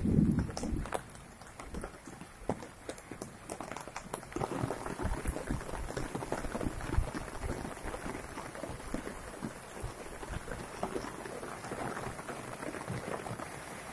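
Rain falling, with many separate drops ticking close by. The hiss of the rain grows fuller about four seconds in. A low rumble passes in the first second.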